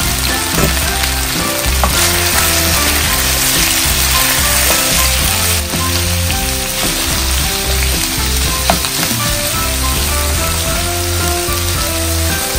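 Chicken wings and onion sizzling as they fry in oil in a nonstick wok, with a spatula stirring and now and then clicking against the pan.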